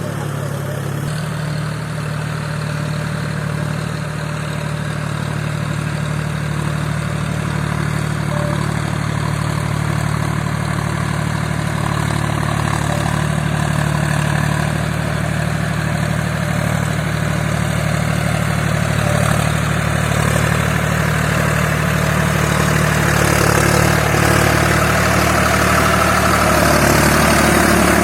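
John Deere 5050D tractor's three-cylinder diesel engine running steadily, getting gradually louder toward the end.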